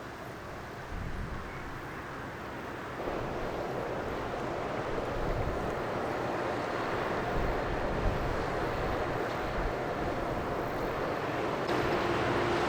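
A ship's engine running with a steady low hum that grows louder as the vessel passes close by. Wind buffets the microphone.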